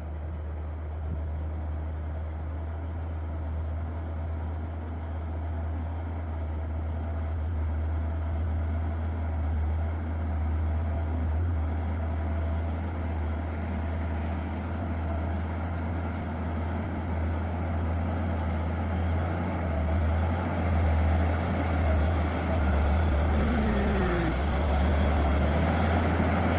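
Diesel truck engine labouring as the truck climbs a muddy incline, its sound growing gradually louder.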